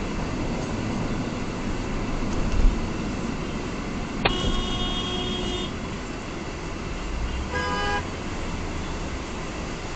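Steady traffic and road noise with a car horn honking: one held honk of about a second and a half partway through, and a short second honk a few seconds later.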